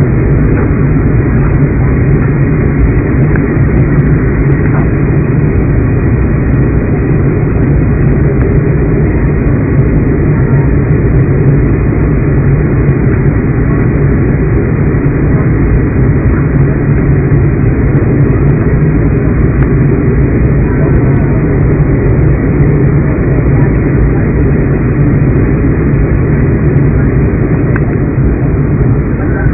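Steady rumble of an airliner's engines and airflow heard from inside the passenger cabin.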